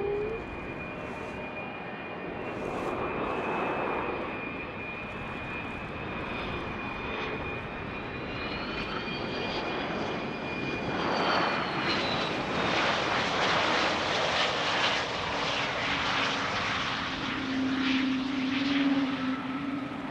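Business jet's turbofan engines on a landing: a high whine rises and falls about halfway through, then a louder rushing noise sets in for the rest of the time.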